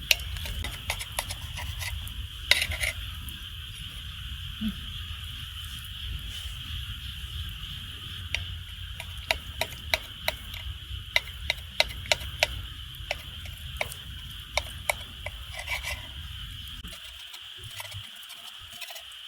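Metal utensil stirring and clinking against an iron frying pan, with many scattered sharp clicks, over a steady high chorus of night insects. A low steady rumble underneath drops away near the end.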